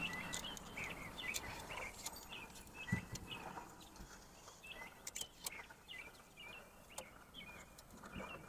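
Small birds chirping repeatedly in the background, with faint clicks and a single knock about three seconds in from hands handling a folding table.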